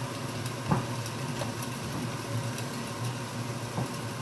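Stir-fry sizzling steadily in a wok over a constant low hum, with a few faint clicks.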